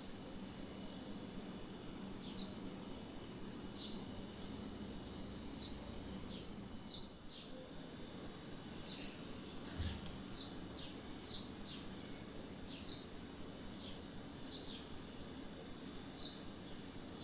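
A bird chirping over and over, short high calls about once a second, over a steady low hum and background noise. A single soft knock about ten seconds in.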